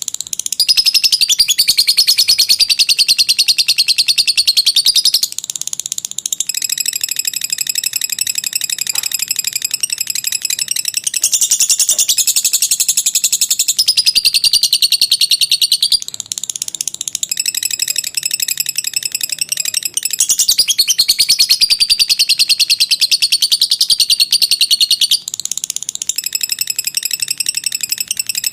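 Lovebird singing a long ngekek: a high, very rapid chattering trill held for several seconds at a stretch, in about five long phrases separated by brief breaks.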